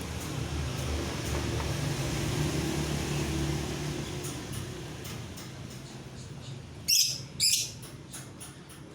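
Lovebird calling: faint short chirps, then two loud, shrill chirps in quick succession about seven seconds in, over a steady low background hum.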